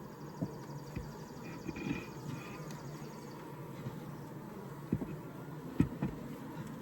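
Honeybee colony humming steadily in an open Layens horizontal hive during a frame inspection, with scattered sharp knocks and clicks of wooden frames being handled; the loudest knock comes near the end.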